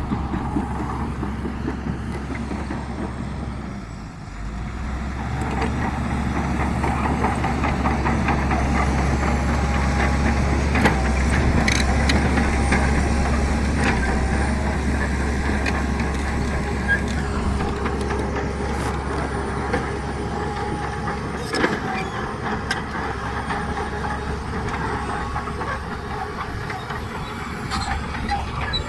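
Heavy diesel earthmoving machinery running under load. The engine drops briefly about four seconds in and then works harder. A few sharp metallic clanks come in the middle.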